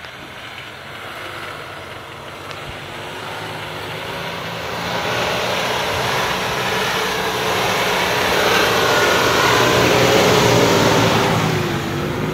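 Off-road 4x4's engine revving under load, its pitch rising and falling, growing steadily louder over about ten seconds and easing slightly near the end.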